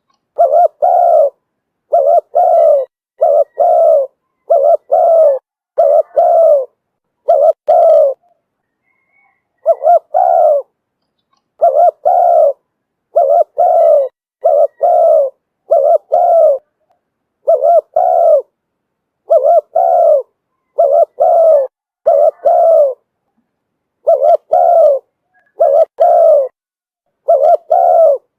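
Spotted dove cooing over and over in short phrases of two or three notes, with clean silence between phrases. It is a decoy call recording meant to lure wild doves.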